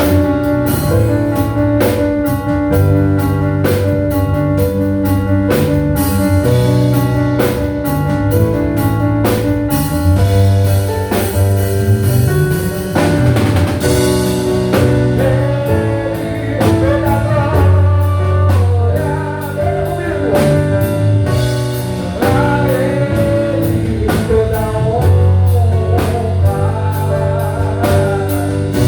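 Live band playing a song: drum kit keeping a steady beat, bass guitar, and a lead voice singing over it.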